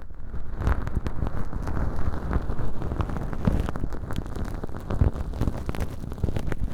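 Feather-tipped earpicks (bonten) brushing and scratching dry, flaky fake earwax inside a fluffy velcro-lined tube ear, close on the microphone: a dense, crackly rustling full of small clicks.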